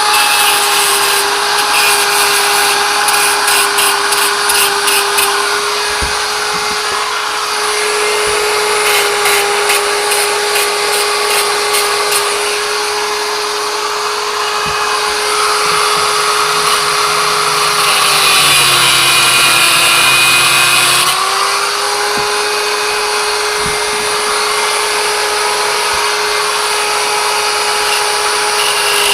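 Handheld electric power tool running steadily, a constant motor whine, as it cuts a piece of racing-exhaust steel. Its pitch sags for about three seconds near two-thirds of the way through as it bites under load, with a harsher grinding hiss.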